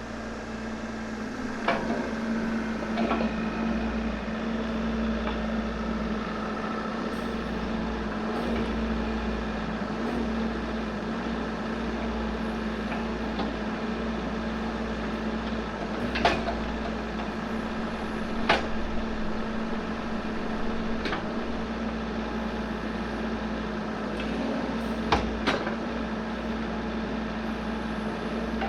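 Excavator's diesel engine running at a steady speed, with a few sharp knocks or clanks spaced several seconds apart.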